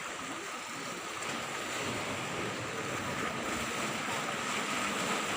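Steady rushing of sea water and wind, with a faint steady high tone running through it.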